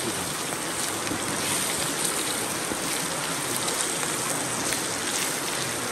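Food frying in hot oil in a wok: a steady sizzle.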